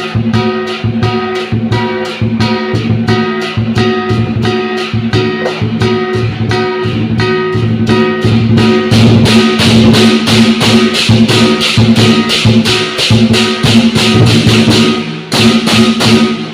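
Lion dance percussion playing a steady beat of about three strokes a second, with ringing gong and cymbal tones over the drum; about halfway through it grows louder and busier, with heavier cymbal crashes.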